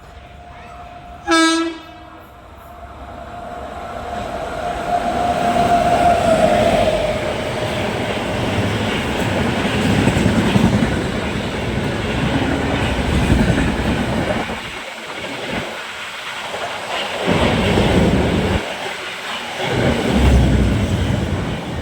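Superfast express train passing through a station at high speed. A short, loud horn blast sounds about a second and a half in, and a horn note slides down in pitch as the locomotive goes by. Then comes the loud rush and wheel clatter of the coaches running over the rails.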